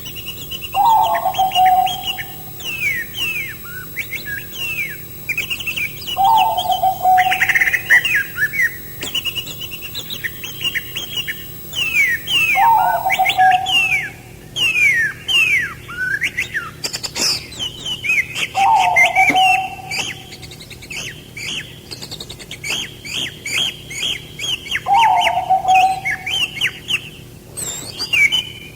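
Several songbirds chirping with quick, falling high notes, while a lower, shorter call repeats about every six seconds, five times in all.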